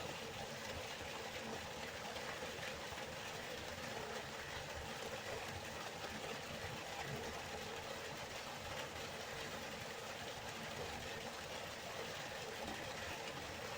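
Waterfall: water falling and rushing in a steady, even noise.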